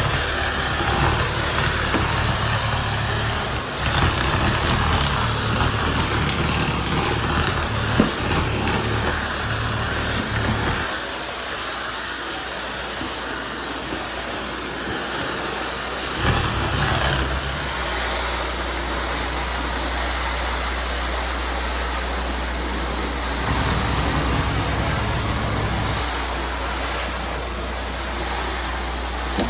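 Tile-cleaning machinery running steadily: a loud hiss from motor and vacuum, with a low hum underneath that changes around 11 and 16 seconds in.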